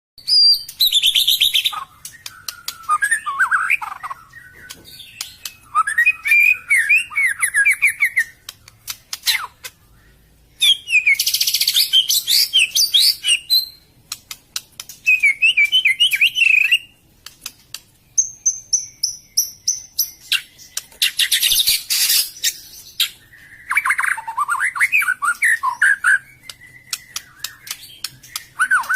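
White-rumped shama (murai batu) singing: bursts of two to four seconds of quick, varied whistled phrases mixed with scratchy, clicking notes, with short pauses between bursts.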